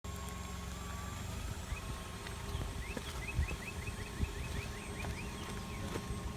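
Car rolling along with a low rumble, and midway through a quick run of about eight short, high squeaks in a second: the noise coming from one of its tires.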